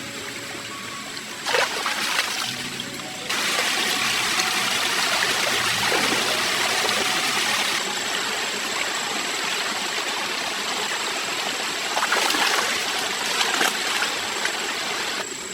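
Stream water rushing and splashing, swelling louder a few seconds in, with brief splashy surges near the start and again near the end.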